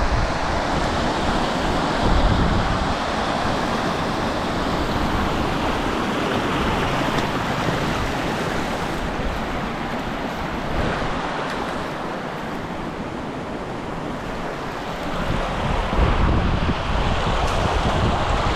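Strong wind gusting and buffeting the microphone, a steady rushing noise with low rumbling thumps; it eases a little about twelve seconds in, then gusts up again a few seconds later.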